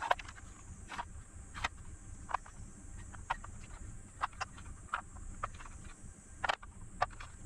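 Light, irregular clicks and taps, a few a second, from multimeter probe tips being touched onto battery cell terminals while cell voltages are checked, over a steady low hum.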